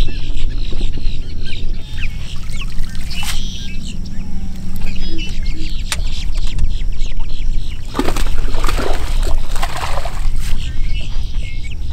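Waterbirds calling repeatedly in short, honking notes over a steady low rumble, with a noisy burst about eight seconds in.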